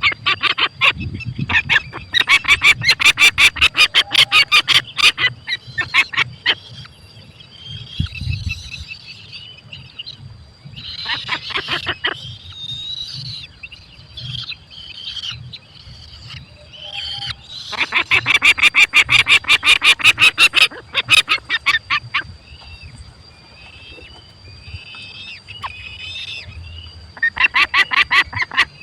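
Falcons calling at the nest: loud runs of rapid, sharp repeated notes, several seconds each, about five times, with softer chirping between the runs.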